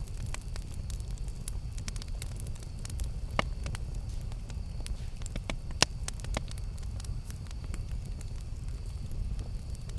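Campfire burning with a steady low rumble of flames and frequent sharp crackles and pops of burning wood, two louder pops about three and a half and six seconds in.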